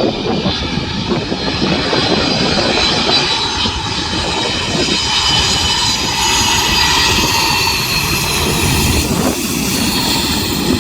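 Boeing 737-200's Pratt & Whitney JT8D turbofan engines running, a loud steady rush with high whining tones; one whine falls slowly in pitch partway through.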